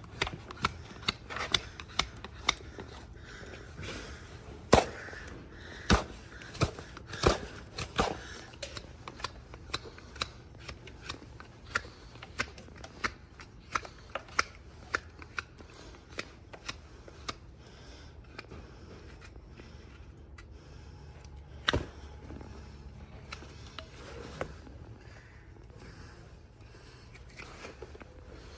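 Farrier's tools cutting into a hard, dry, overgrown horse hoof: a run of sharp clicks and snaps, one or two a second, thinning out past the middle, with one louder snap later on.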